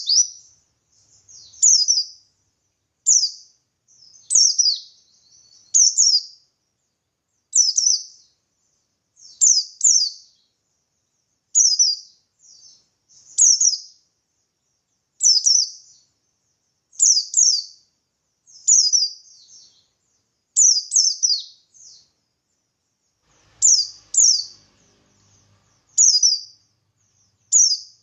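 Oriental white-eye (pleci buxtoni) singing in the wild 'ngalas' style: short bursts of rapid, high, downward-sweeping chirps, repeated about every one and a half to two seconds.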